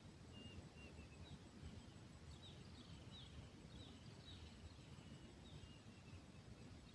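Near silence broken by a series of faint, short, high bird chirps, some falling slightly in pitch, over a low background rumble.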